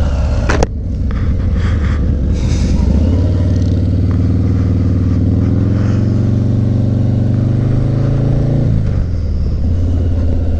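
Motorcycle engine pulling away under power, its pitch climbing steadily for several seconds and then dropping sharply about nine seconds in as it shifts up a gear. There is a sharp click about half a second in.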